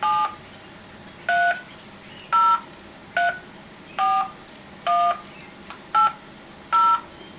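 Touch-tone (DTMF) keypad tones: eight short two-note beeps, one per key press, about a second apart, as a callback phone number is keyed into a voicemail system.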